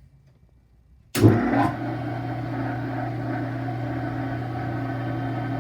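Three-phase electric motor switched on about a second in: a loud surge at start-up, then a steady electrical hum as it runs.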